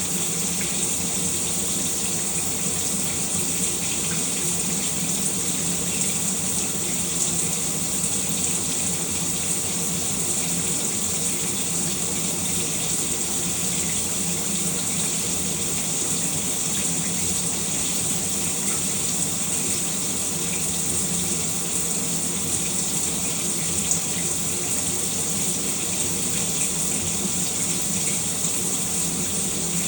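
Shower running steadily, an even hiss of water spray with no breaks or changes.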